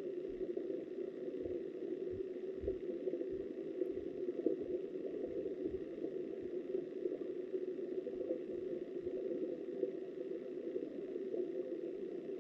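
Steady, muffled rush of river current heard through an underwater camera, with irregular low thuds of water against the housing.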